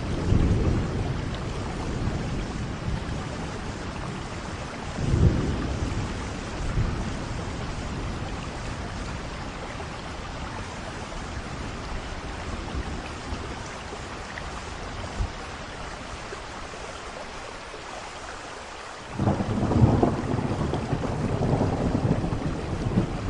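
Steady rain with thunder rumbling: low rolls at the start and about five seconds in, a calmer stretch of rain alone, then a fresh long rumble of thunder starting suddenly near the end.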